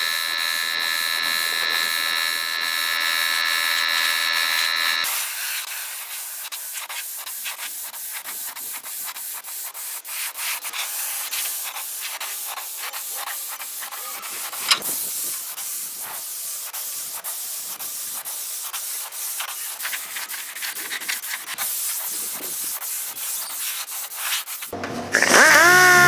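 Rapid abrasive rubbing strokes, like sanding or scraping a surface by hand. For the first five seconds a steady high whine runs with it, there is a single sharp click about halfway through, and a louder pitched sound starts near the end.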